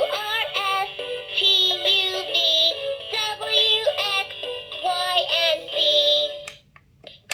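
LeapFrog Fridge Phonics toy playing its electronic children's song with synthetic-sounding sung vocals. It breaks off briefly near the end.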